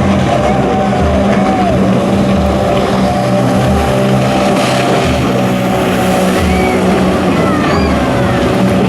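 Jet ski engine running loud and steady, its pitch rising and falling with the throttle.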